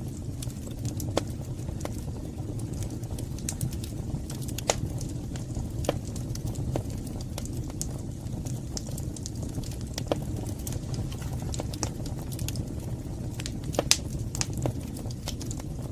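Wood fire burning in a fireplace: a steady low rumble of the flames with scattered sharp crackles and pops every few seconds, the loudest near the end.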